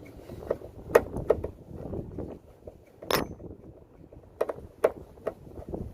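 Handling noise of a screwdriver working on an air conditioner indoor unit while its earth screw is taken out: a series of sharp clicks and knocks, the loudest about three seconds in, over low rustling.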